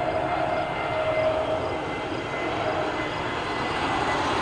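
Jet engines of an Aer Lingus airliner arriving from Dublin: a steady rushing drone with a faint whine.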